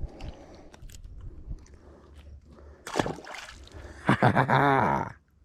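Faint handling and splashing at the water's edge, with a short sharp swish about three seconds in. A second later a man's wordless drawn-out vocal sound follows, and it cuts off suddenly.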